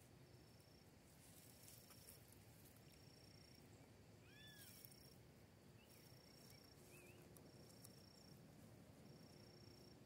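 Near silence with faint bird calls: an arched whistle about four seconds in and short chirps around six and seven seconds, over a faint thin high note that repeats about once a second.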